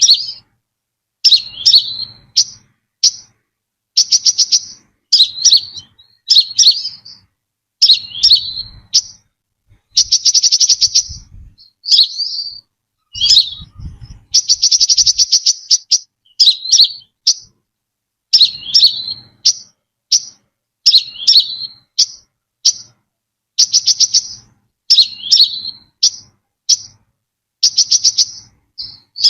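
Brown-throated sunbird calling: a quick series of short, sharp, high chirps with brief gaps between them. Twice, about ten and fourteen seconds in, it gives a longer fast trill lasting a second or more.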